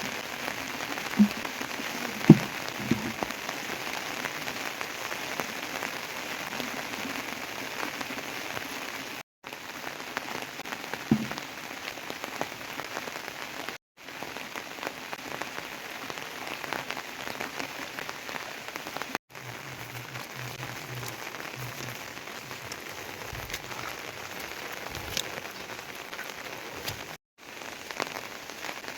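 Steady rain falling on surfaces, an even hiss of drops, with a few sharp knocks in the first few seconds and once more near the middle. The rain drops out briefly four times.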